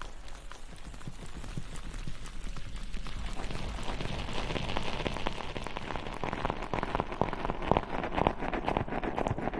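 Close-miked ASMR crackling and rustling, a dense patter of fine clicks that grows louder and busier about halfway through.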